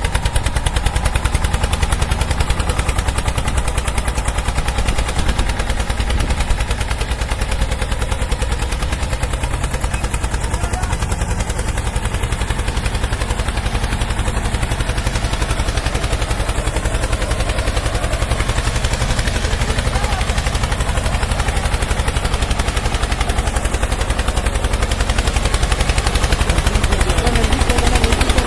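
Small motor of a miniature model truck running steadily with a rapid, even chatter, a little louder near the end.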